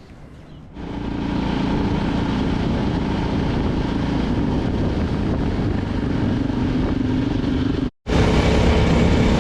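KTM single-cylinder dual-sport motorcycle engine running steadily under way, starting about a second in. It cuts out for a moment near the end, then resumes a little louder.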